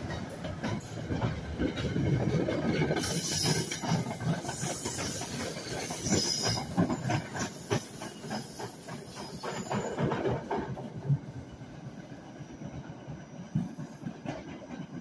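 NJ Transit Comet passenger cars rolling past on the North Jersey Coast Line, their wheels clicking rapidly over the rail joints under a hissing rush. The sound fades over the last few seconds as the cab car on the rear goes by and the train pulls away.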